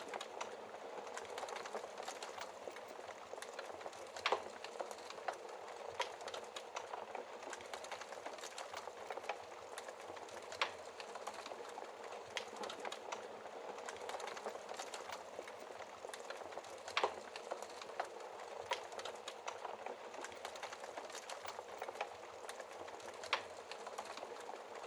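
Wood fire burning in a fireplace: a steady hiss and dense small crackles, with a louder pop every six seconds or so.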